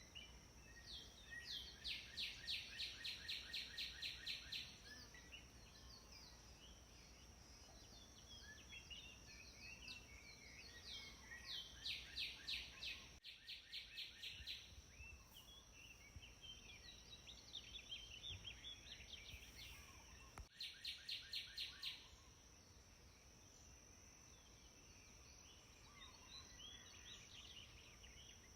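Birds singing: one bird gives a rapid trill of evenly spaced high notes three times, each run lasting one to three seconds, with scattered short chirps from other birds between. A steady thin high-pitched tone runs underneath.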